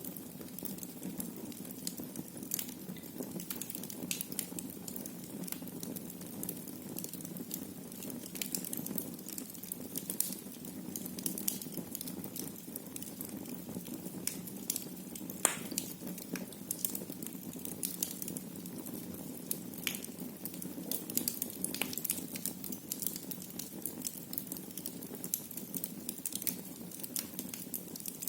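Wood fire burning in a fireplace: a steady low rumble of flames with frequent irregular crackles and pops, one sharper pop about halfway through.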